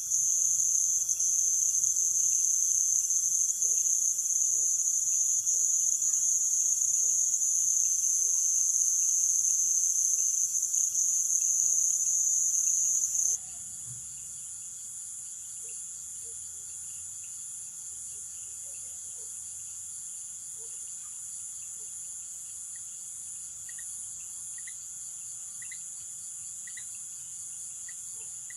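Night insect chorus in Amazon rainforest: a dense, steady, high-pitched shrilling. About halfway through it drops suddenly to a much quieter, faintly pulsing chorus, with a short chirp repeating about once a second near the end.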